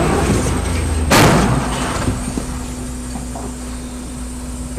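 A sudden loud bang about a second in, typical of a vehicle collision heard from inside a car, followed by a steady hum of the car's cabin.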